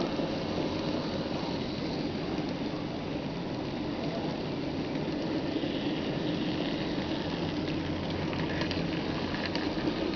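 N-scale model train running on the layout: a steady whirring rumble from its small motor and wheels on the track, with a few light clicks near the end.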